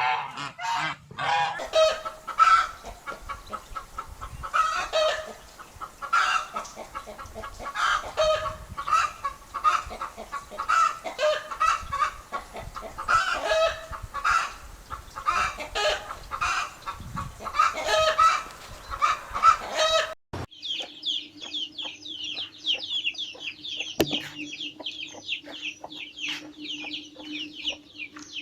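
Hens clucking, a stream of short repeated calls for about twenty seconds. Then, after a sudden cut, fast high-pitched chirping over a steady low hum.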